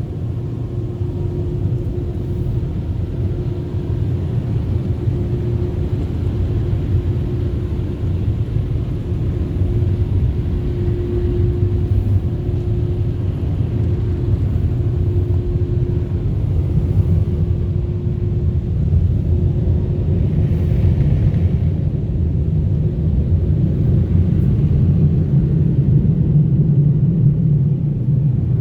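Ryko Pulse touchless car wash air dryers blowing on the vehicle, heard from inside the cabin: a loud, steady low rumble with a constant hum, growing a little louder toward the end.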